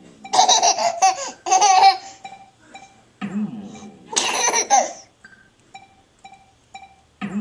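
A toddler laughing in two loud bursts, each set off by a sound effect from the TV, a sudden sound whose pitch slides downward. Short faint tones repeat between the bursts.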